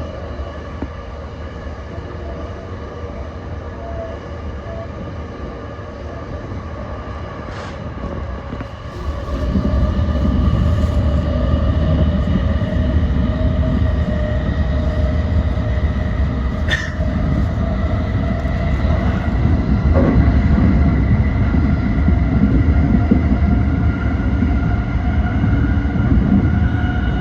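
JR East E235 series electric train running on the line, with a steady whine that slowly rises in pitch over a rumble of wheels on track. The rumble gets clearly louder about nine seconds in, and there are a couple of brief clicks.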